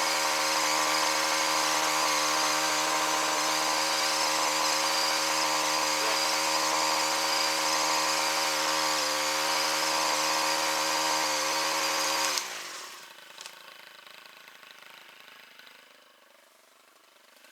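Gas chainsaw running at a steady high pitch, as in a cut, then shut off about twelve seconds in, its note falling away as the engine winds down.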